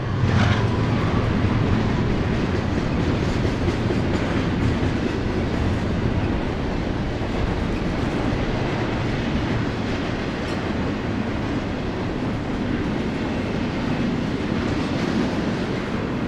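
Double-stack intermodal freight train's loaded well cars rolling past: a steady rumble of steel wheels on rail with light clatter, holding an even level throughout.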